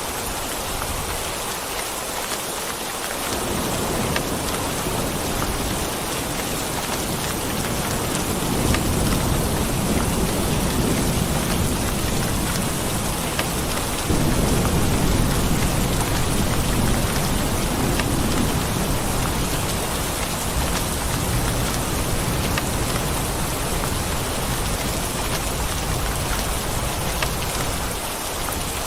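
Steady heavy rain falling, with a rolling thunder rumble that starts a few seconds in, swells twice and fades away near the end.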